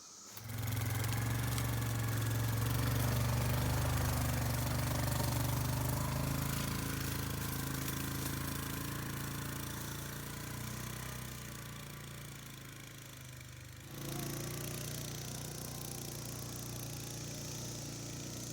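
Vehicle engine running steadily as it pulls a felled cedar log, fading slowly, then jumping back up abruptly about fourteen seconds in.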